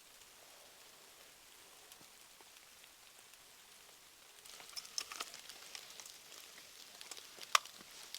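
Wood fire crackling: a faint steady hiss, then from about halfway a run of small crackles and sharp pops, with one loud snap near the end.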